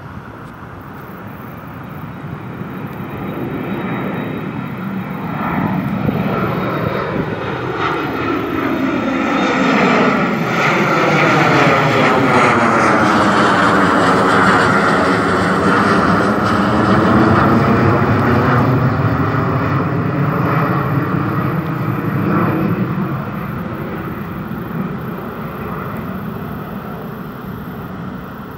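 A departing airliner passing by under power. Its engine noise swells to a peak about halfway through and then fades, with tones sweeping down and back up as it goes past.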